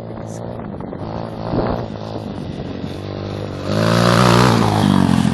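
Gio 250 dirt bike engine running, then revving up hard and much louder about two-thirds of the way in.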